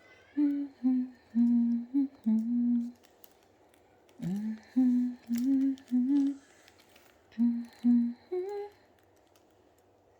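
A person humming a tune in short, separate notes, stopping about nine seconds in, with light clicks of hands handling the parts underneath.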